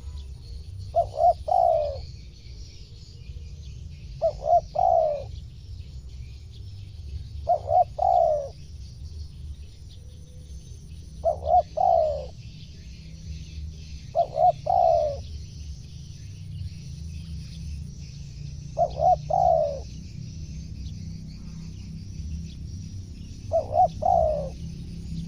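Spotted dove cooing: the same phrase repeated seven times, about every three to four seconds, each a couple of short coos followed by a longer one. A steady high chirping hiss and a low rumble run underneath.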